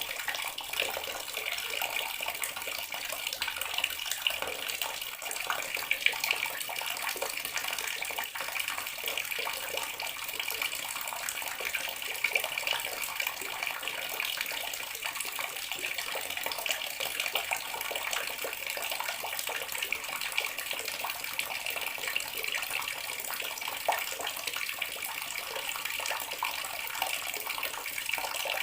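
Water tap running steadily into a bathroom sink, a constant splashing stream.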